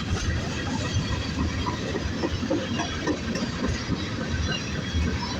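Freight train rolling by: a steady rumble of wheels on the rails with scattered small clicks and squeaks.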